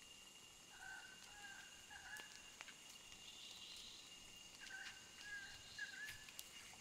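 Faint rainforest ambience: a bird calling in short, slightly bending notes, in two bursts of three or four calls about a second and nearly five seconds in. A steady thin high tone runs underneath.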